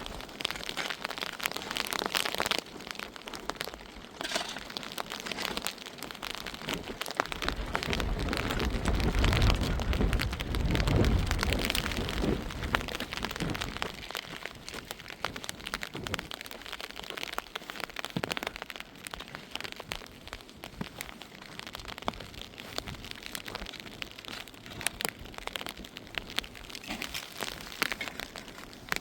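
Heavy rain pattering steadily with many small drop impacts. A loud low rumble swells about seven seconds in and fades out by about fourteen seconds.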